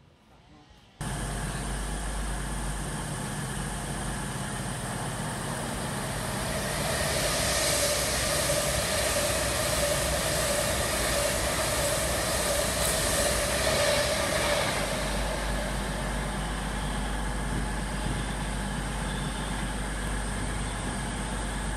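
Passenger train moving alongside the platform: a steady rumble and hum that begins abruptly about a second in, swells louder in the middle and then eases off.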